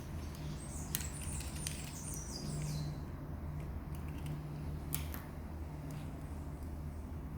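A bird chirping in a quick run of high notes about a second in, with a few sharp clicks and a steady low hum underneath.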